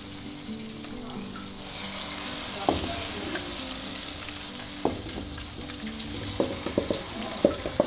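Fried onions in hot oil sizzling as they are poured from a metal pan into a clay pot of chicken. A spatula scrapes and knocks against the pan, a couple of times in the middle and then several times near the end.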